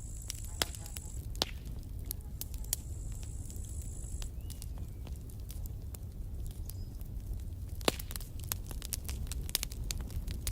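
Campfire burning: irregular crackles and sharp pops over a steady low rumble, the pops coming thicker in the second half. A thin, high, steady whistle sounds twice in the first half, each time for about a second and a half.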